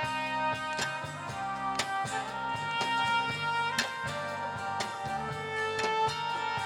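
Band playing an instrumental passage of a song with no vocals: held melody notes over a steady bass line and drum beat.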